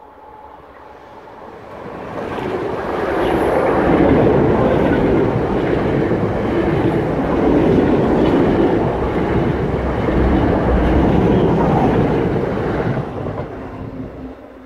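A train of three coupled Class 321 electric multiple units passing close by on the main line: a loud, steady rush and rumble of wheels on rail that builds about two seconds in, holds for about ten seconds, and falls away near the end.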